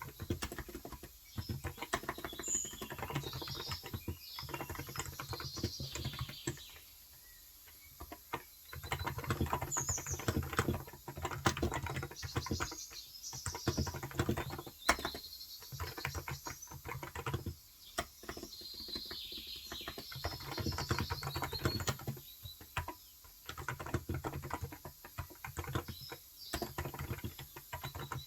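Fast typing on a Cox Endeavor electro-capacitive keyboard with 35 g switches: runs of soft keystrokes with a pause of about two seconds around a quarter of the way in. Birds chirp in the background.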